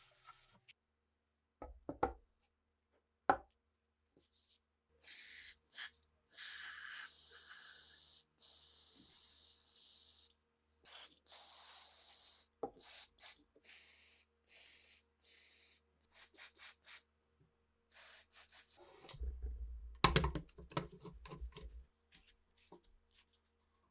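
Two knocks, then repeated hissing sprays that start and stop sharply, the first lasting about five seconds and the later ones shorter. Near the end comes a louder stretch of rubbing and knocking.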